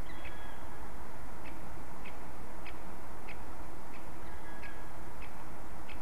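A bird calling in short sharp notes, about three every two seconds, with a brief whistled tone twice, over a steady outdoor hiss.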